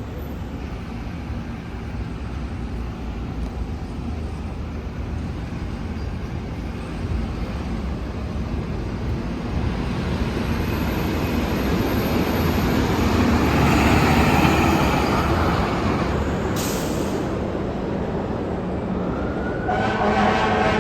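Fire engine's diesel engine running as it approaches and passes, loudest about two-thirds through, with a short hiss soon after. Its siren starts to wail near the end.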